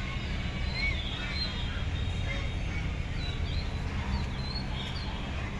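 Small birds chirping, short scattered notes, over a steady low rumble.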